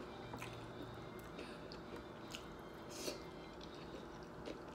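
Faint chewing of a taco, with scattered soft wet clicks and smacks of the mouth.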